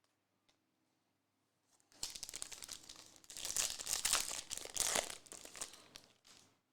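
A trading-card pack wrapper being torn open and crinkled: a crackling rustle that starts about two seconds in and runs for about four seconds.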